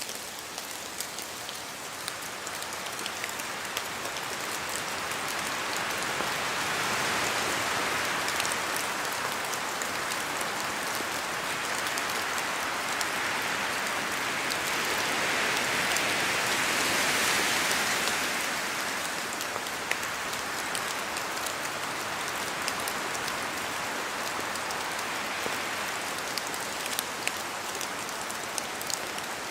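Steady rain falling in a spruce forest, with sharp ticks of drops falling from the trees. The sound swells twice, as wind rises through the branches.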